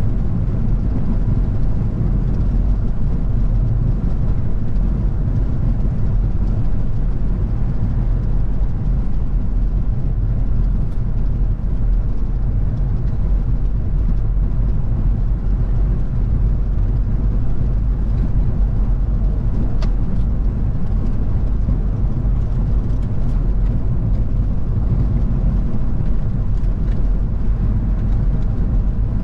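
A car driving at a steady speed: a low, even rumble of engine and road noise that stays unchanged throughout.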